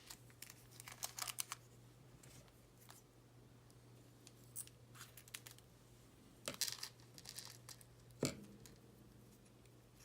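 Small plastic bag of model-kit screws rustling and crinkling as it is handled and opened, with scattered light clicks of small parts, over a faint steady low hum.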